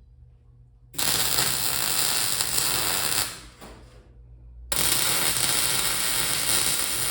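Electric welding arc crackling in two bursts of about two to three seconds each, starting and stopping abruptly as the threaded-rod axle is tack-welded on. A steady low hum runs underneath.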